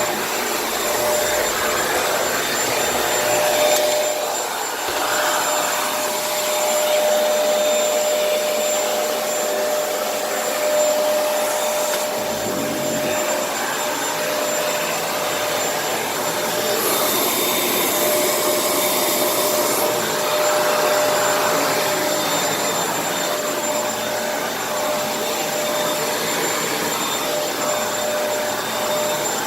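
Kenmore vacuum cleaner running, a steady whine over rushing air, its tone shifting now and then as it works.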